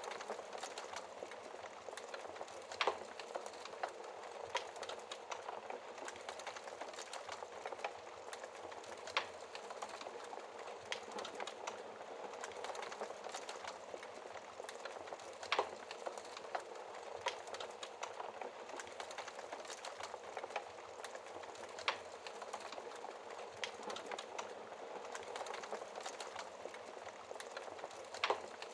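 Wood fire burning in a fireplace: a steady crackle and hiss with frequent small snaps and a few louder pops from the burning logs.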